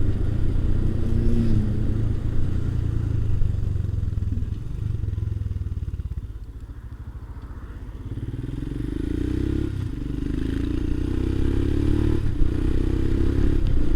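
Motorcycle engine running on the road. It eases off to a quieter low rumble about halfway through, then picks up again with the engine note rising as the bike accelerates.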